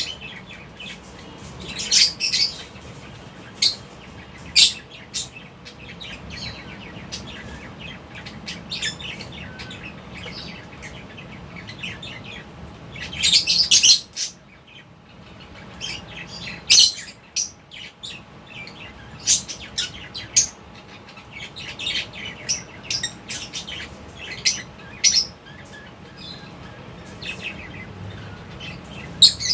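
A flock of lovebirds chirping, with many short, high, shrill calls coming irregularly and a louder burst of calls about halfway through.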